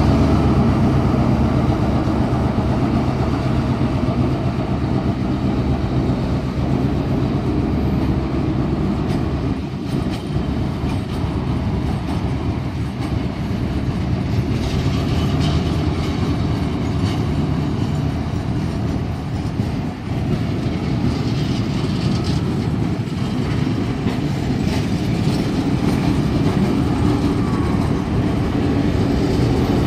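Diesel-hauled heritage passenger train rolling past: the leading diesel locomotive's engine runs steadily for the first few seconds, then the passing carriages' wheels run over the rails.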